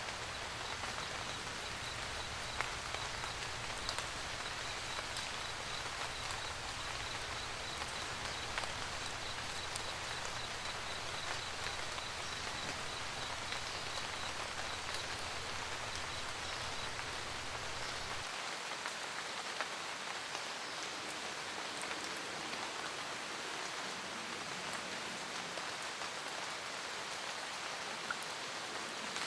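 Steady rain falling, with occasional louder individual drops. A low rumble underneath cuts off suddenly about two-thirds of the way through, and a faint high ticking, about two a second, runs through the first half or so.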